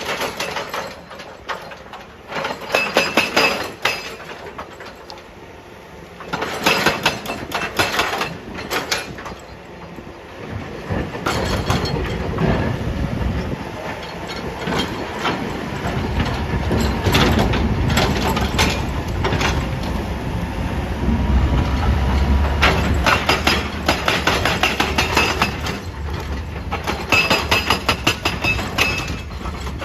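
Excavator-mounted hydraulic breaker hammering rock: bursts of rapid metallic strikes lasting a second or two, repeated every few seconds, over the machine's diesel engine, which runs louder and lower through the middle stretch.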